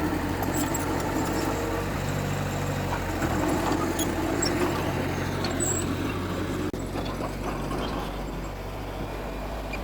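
Heavy diesel engine of earthmoving machinery running steadily, getting a little louder about midway through.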